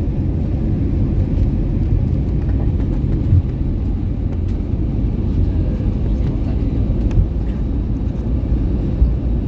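Airliner cabin noise: a steady low rumble from the engines and airframe, with a few light knocks.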